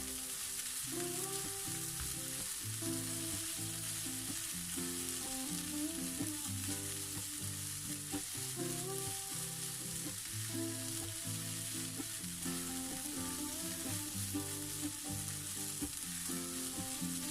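Chicken fried rice frying in a pan with a steady sizzle, under background music with a melody of stepped notes.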